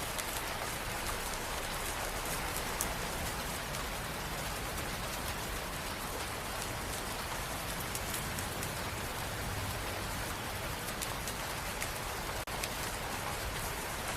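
Steady rain: an even hiss with scattered sharp drop ticks. It drops out for an instant near the end.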